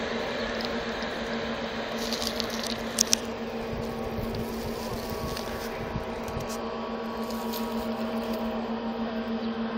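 A steady low hum runs throughout, under the fading rumble of a train pulling away into the distance; the rumble thins out a little past the middle. Two sharp clicks come close together about three seconds in.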